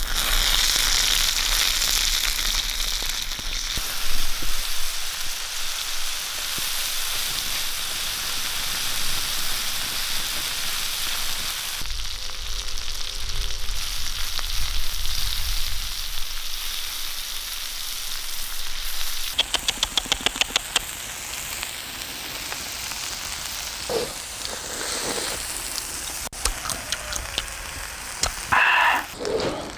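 Shrimp frying in oil on a hot stone slab over a wood fire: a steady sizzle for most of the time, with a quick run of clicks about two-thirds through. Near the end come a few loud crunches as the shell-on shrimp are bitten into.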